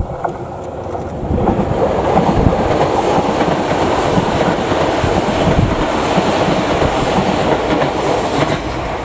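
Electric commuter train passing close by on the rails, a steady rush of wheel and running noise that grows loud about a second in and eases off near the end.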